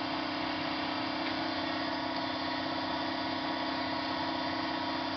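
Suzuki GSX-R600 inline-four idling steadily through a newly fitted aftermarket exhaust pipe.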